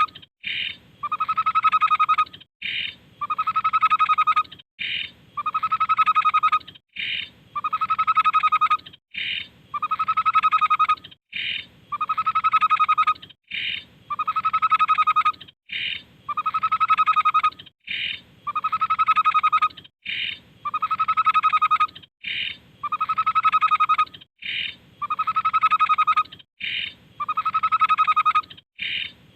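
Tepus babbler singing: a short high note followed by a longer, rapidly fluttering whistle, the same phrase repeated at an even pace about every two seconds.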